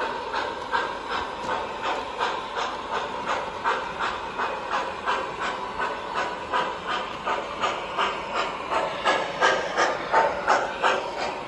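MTH RailKing model steam locomotive's sound system playing a steady rhythm of steam chuffs, about three a second, growing louder near the end, over a faint steady hum.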